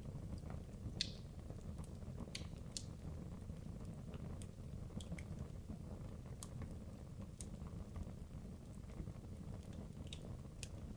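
Wood logs burning in a fireplace: a low steady rumble of flame with scattered sharp crackles and pops.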